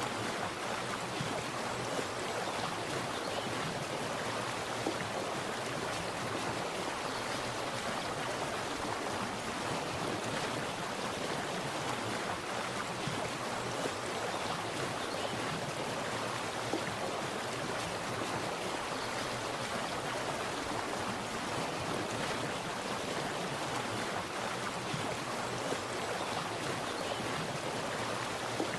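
Water splashing and running steadily, an even rushing with small splashes here and there.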